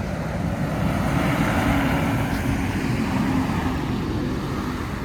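A large truck passing on the street: a steady engine note with a hiss of tyres that swells through the middle and fades near the end.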